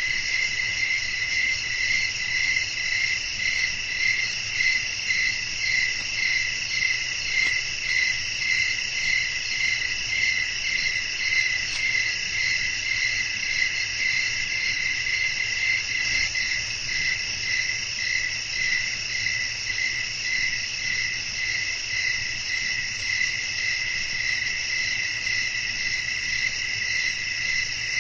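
A chorus of crickets chirping steadily at night, in a pulsing rhythm of about two chirps a second, with a faint low wind rumble underneath.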